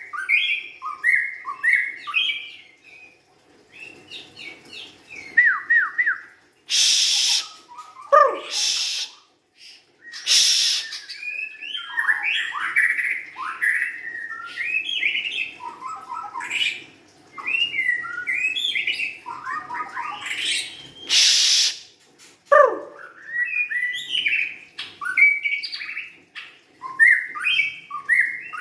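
White-rumped shama singing a fast, varied run of whistled and chattering phrases, with a couple of long downward-sweeping whistles. Three loud, harsh, hissing bursts break in, a quarter, a third and three-quarters of the way through.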